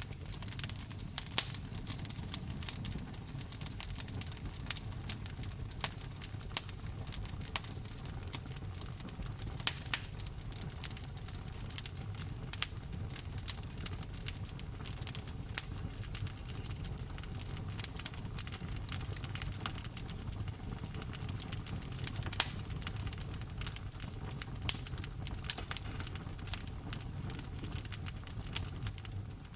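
Wood fire burning in a fireplace, with steady irregular crackling and sharp pops over a low rumble of flame.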